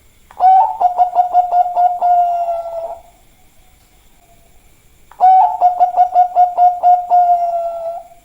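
Bangkok-type zebra dove (perkutut) singing two cooing phrases. Each is a run of about ten quick, stuttering notes on one pitch and lasts about two and a half seconds. The second phrase starts about five seconds in.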